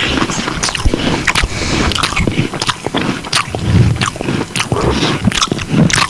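Close-miked eating: a person biting and chewing food, with many small, irregular clicks throughout.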